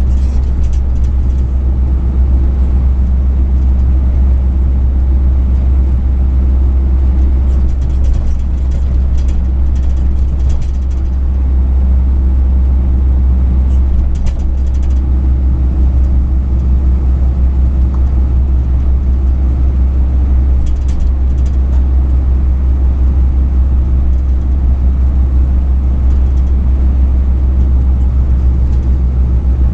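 A truck on the move: a steady, loud low rumble of engine and road noise as picked up in the cab, with a few faint light rattles now and then.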